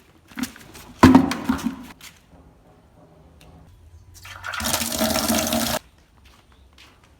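A knock and clatter about a second in, then water gushing for about a second and a half that cuts off suddenly.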